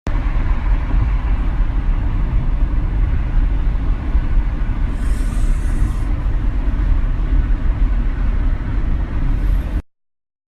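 Steady low rumble of a car on the move, loudest in the deep bass, with a brief hiss about five seconds in; it cuts off abruptly near the end.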